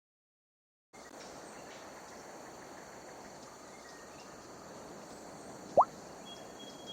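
Outdoor ambience with a steady high insect chirring, such as crickets, starting suddenly about a second in. A short, loud rising blip sounds near the end, followed by a brief high steady tone.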